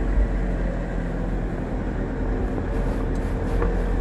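Steady low engine and road rumble inside a moving vehicle's cab, with a faint steady hum and a brief click about three and a half seconds in.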